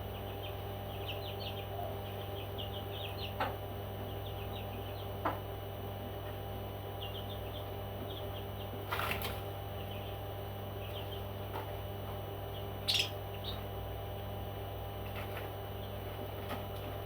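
Pet parrot chirping: quick runs of short, high chirps, with a few clicks and two louder calls about nine and thirteen seconds in, over a steady low hum.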